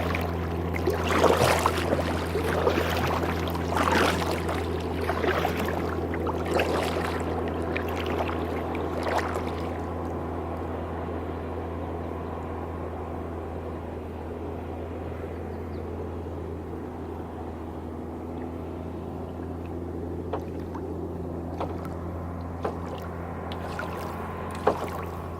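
Wake waves from a passing boat slapping and splashing against the hull of a plastic kayak, busiest in the first ten seconds and then settling to a gentle lapping, over a steady low hum.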